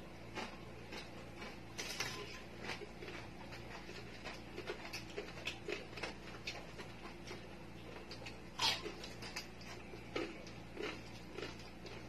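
Two people eating crispy roast pig head with their fingers: irregular chewing, wet mouth smacks and clicks, and crunches of the crisp skin, with one louder crunch about three-quarters of the way through.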